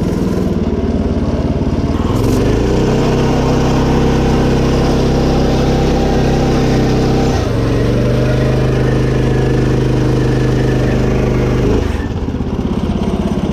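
Small single-cylinder engine of a stretched mini bike running hard at full throttle on a top speed run: a steady, loud engine note that climbs about two seconds in, wavers briefly in the middle, and eases off near the end as the throttle is let go.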